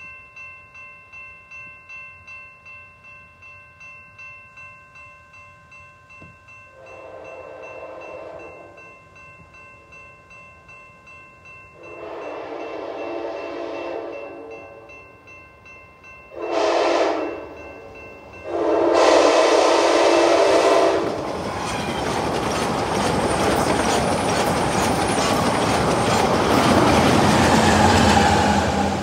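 Grade-crossing warning bell ringing about twice a second as an Amtrak train approaches and sounds its multi-chime horn in the crossing pattern: long, long, short, long. The train then passes close at speed with loud wheel and rail noise.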